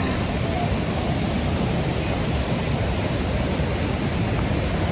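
Steady roar of rushing water from a waterfall and the river below it.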